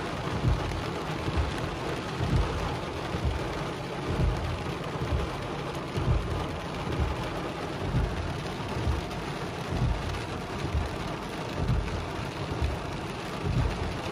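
Heavy rain pelting a car's roof and windshield, heard from inside the closed car: a steady wash of noise broken by frequent dull low thumps.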